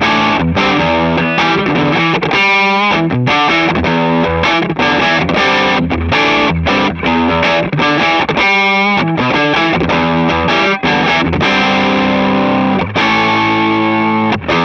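Gibson ES-335 semi-hollow electric guitar played with distortion: rock and roll riffs in E minor, fast picked notes with two bent, wavering held notes, ending on a held chord that is cut off sharply.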